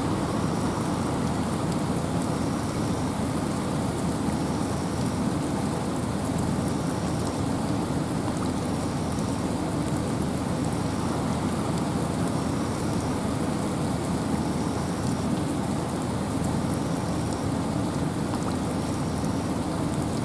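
Steady rain falling in a forest, with wind: an even, unbroken rushing hiss with a low rumble beneath it. A faint short high chirp repeats about every two seconds.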